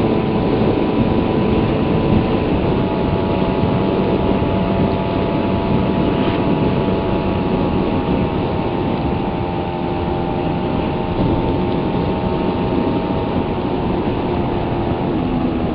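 Suzuki Raider 150's single-cylinder four-stroke engine running steadily under way at cruising speed, its pitch drifting gently as the throttle changes, with wind and road noise rushing over the microphone.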